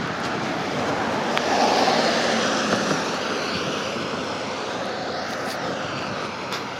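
A vehicle passing, its noise swelling to the loudest point about two seconds in and then slowly fading away.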